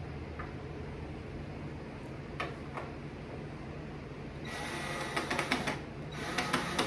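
A small electric drill motor running in two short bursts about four and a half and six seconds in, with a rattling whir, driving screws into the bench's wooden panels; a few light knocks before that.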